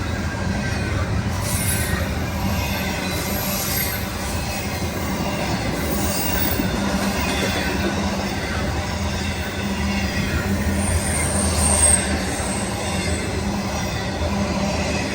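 A train rolling steadily past on the main line, steel wheels running on the rails with a low steady rumble, and a brief high wheel squeal about eleven seconds in.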